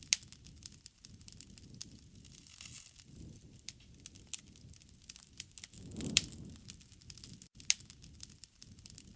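Wood fire crackling, with irregular sharp pops, the loudest just after the start and about six seconds in, over a low rush of burning.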